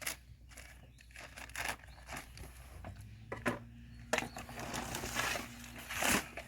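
Sand being scattered and worked into a car's carpet and seats: irregular rustling, crinkling and scraping, with a denser hissing stretch about four to six seconds in.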